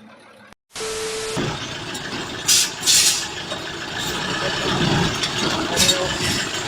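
A motor vehicle running, with steady engine and road noise and several short, sharp hisses.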